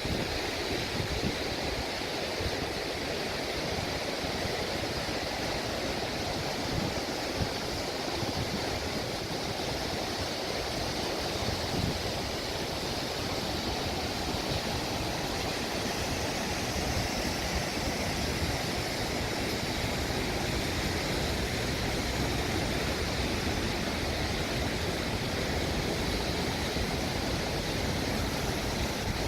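Steady rush of high floodwater pouring through a whitewater kayaking course on a river swollen by heavy rain.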